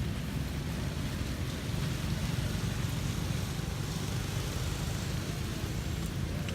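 Steady rain hissing, with wind buffeting the microphone in a continuous low rumble.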